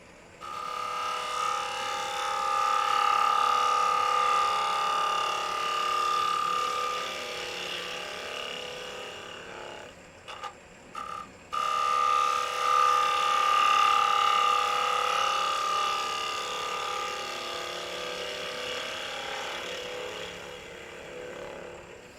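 A turning tool cutting across the face of a block of construction lumber spinning on a wood lathe, a steady buzzing whine while the tool is in the wood. Two passes of about ten seconds each, with a short break about ten seconds in, the second pass fading towards the end.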